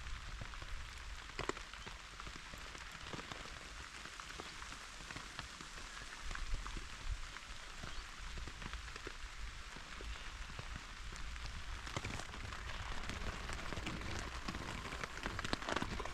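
Steady rain pattering on the tent's fabric, heard from inside the tent: a dense hiss of many small drop ticks, with a few louder drops now and then.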